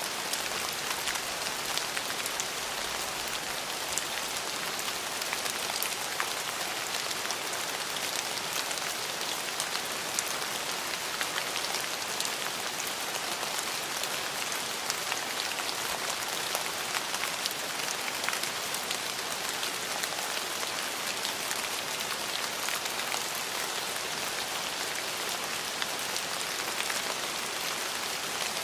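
Steady rain falling and pattering on a surface, with many distinct drop ticks over an even hiss; no thunder is heard.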